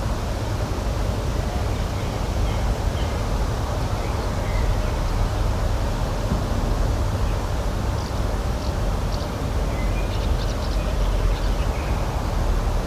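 Outdoor nature ambience: a steady rush with a deep low rumble, and faint short bird chirps scattered over it, most of them about eight to eleven seconds in.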